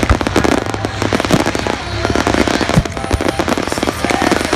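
Fireworks going off: a dense run of rapid, overlapping crackling pops, with a few sharper bangs standing out, about a second and a half in and near three seconds.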